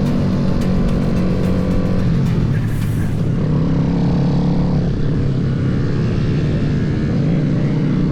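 Motorcycle engine running at fairly steady revs, with an even rush of wind and road noise over it.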